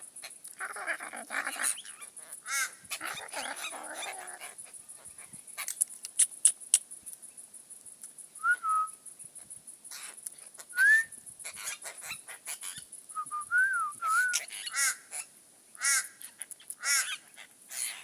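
Apostle birds calling: a burst of harsh, grating chatter, then short whistled notes and more rasping calls in the second half, with scattered clicks and a steady high hiss behind.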